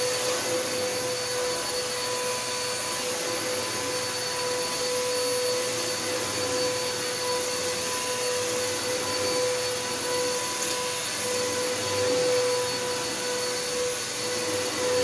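Bissell Helix vacuum cleaner running steadily, its motor giving a constant whine over the rush of air, with small swells in level as it is pushed along.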